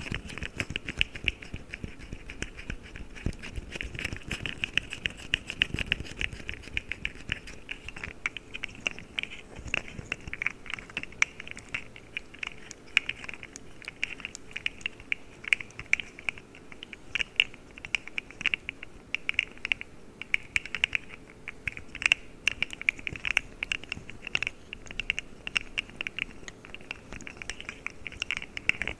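A fidget slug toy handled close to the microphone: rapid, irregular clicking and clacking of its jointed segments, with no pauses.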